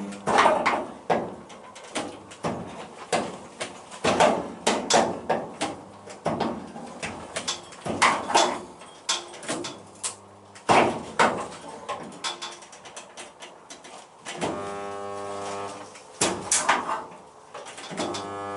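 Spot welder buzzing steadily for under two seconds as it makes a weld, near the end, amid scattered sharp metallic knocks and clatter.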